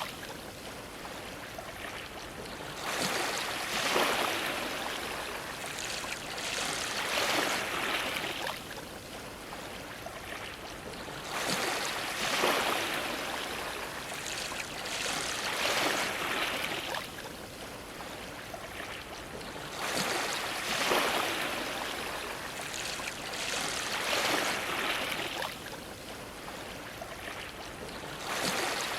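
Sea waves washing against a dock, a steady rush of water that surges roughly every four seconds.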